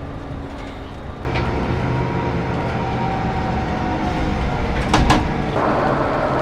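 A Scania K410CB coach under way, its engine and road noise running steadily. The noise gets suddenly louder about a second in, and two sharp knocks come near the end.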